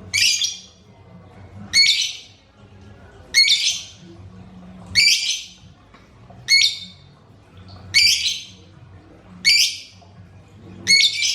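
A lovebird calling in harsh, rasping squawks, one about every second and a half, each starting sharply and fading over about half a second.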